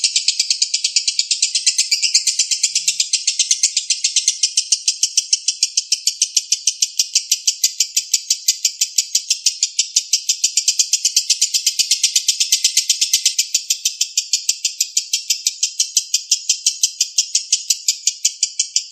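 Lovebird in long 'ngekek' song: an unbroken, even string of shrill repeated notes, about five a second.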